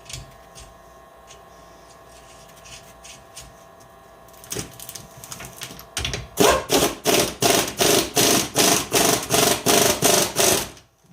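Faint scattered knocks, then from about six seconds in a fast, even run of loud clacking strokes, about four a second, for some four seconds before it stops abruptly: hand work on metal parts.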